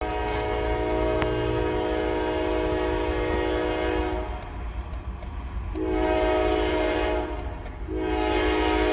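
CSX diesel locomotive's air horn sounding a chord in three blasts: a long blast of about four seconds, a shorter one after a brief gap, and a third starting near the end, over the locomotive's steady low rumble.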